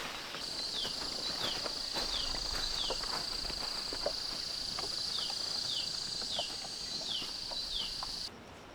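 An insect's steady high-pitched whine, with short falling chirps repeating below it in little runs, over scattered light footsteps and knocks; it cuts off abruptly near the end.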